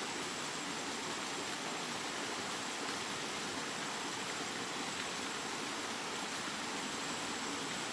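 Steady rain: a continuous, even hiss with no individual drops standing out.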